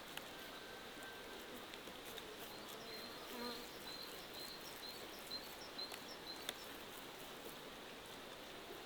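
Faint outdoor ambience: a flying insect buzzes past briefly about three and a half seconds in, among a row of short high chirps and a few soft clicks over a steady hiss.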